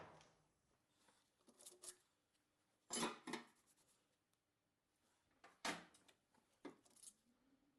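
A few short metallic clinks and knocks as engine parts are handled and set down on a bench, loudest about three seconds in and again a little before six seconds.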